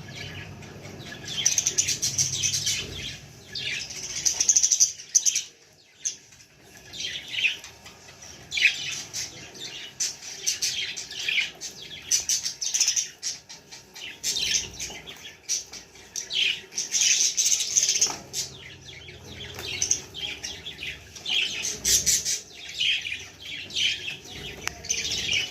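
Budgies chirping and chattering: a stream of short, high calls, with a short lull about five seconds in.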